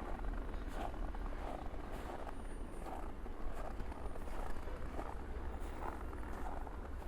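Footsteps crunching in fresh snow at a steady walking pace, about three steps every two seconds, over a low steady rumble of city traffic.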